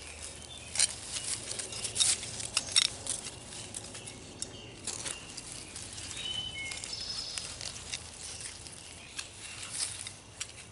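Irregular crackling and rustling of dry soil and garlic plants being handled in a freshly dug garlic bed, with a few bird chirps about two-thirds of the way in.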